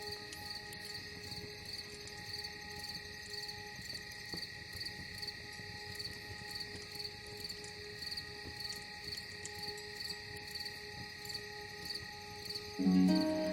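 Crickets chirping in an even rhythm, about two chirps a second, over soft sustained ambient music; a louder, deeper music chord comes in near the end.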